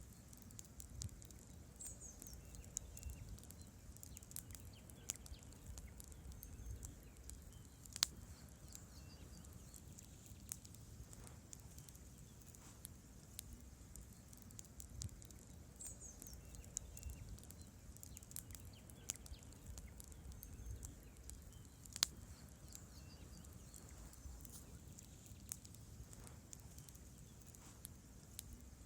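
Wood campfire crackling: a soft low burning noise with many small, irregular pops and crackles of burning logs and branches, and two louder snaps, about a third of the way in and about three-quarters of the way in.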